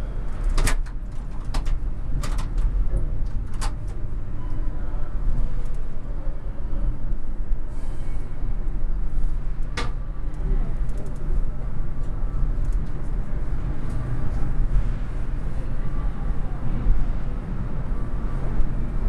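Passenger train rolling slowly over the rails of a ferry's train deck, with a steady low rumble. Sharp clicks come in a cluster in the first few seconds and once more about ten seconds in.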